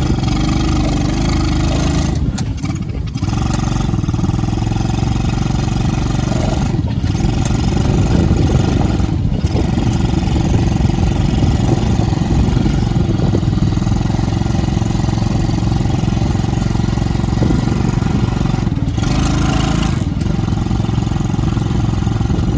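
Small go-kart engine running steadily as the kart is driven, with a few brief dips in the sound.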